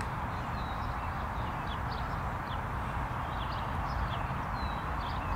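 Birds chirping in short calls, several a second, over a steady outdoor hiss and a low rumble.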